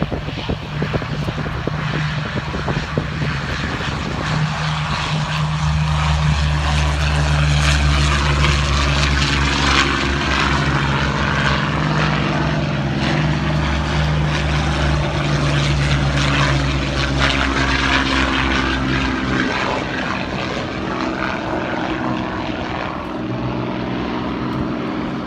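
Several Hawker Hurricanes' Rolls-Royce Merlin V12 piston engines running at power for take-off, a steady propeller-engine drone that builds over the first several seconds and eases back after about twenty seconds.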